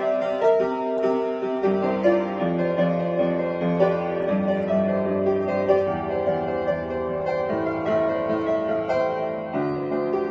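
Piano playing a melody over held chords, the notes changing at a moderate pace.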